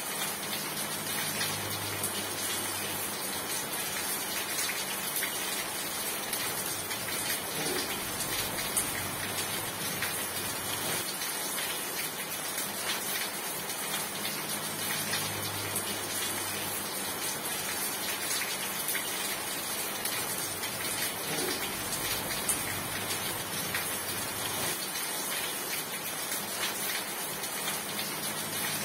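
Steady heavy rain falling on surfaces, a dense hiss of many drops. A low hum fades in and out several times.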